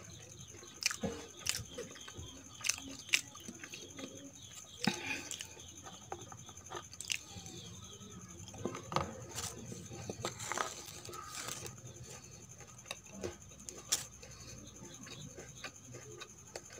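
Close-miked mouth sounds of someone eating boondi ladoo: irregular soft crunches, wet chewing and sharp lip and mouth clicks, with a faint steady high whine underneath.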